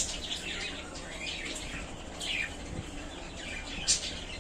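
Budgerigars chirping: quick high chirps and chatter in scattered bursts, a louder chirp near the end.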